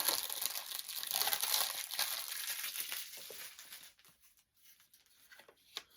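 Plastic packaging crinkling and rustling as it is handled, dense for about the first four seconds, then a few quieter clicks and one sharp click near the end.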